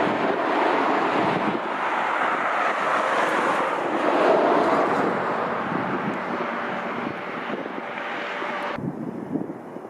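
Jet airliner engine noise, mixed with wind buffeting the microphone, swells to a peak about four seconds in and then fades. It cuts off abruptly near the end, leaving quieter wind gusts.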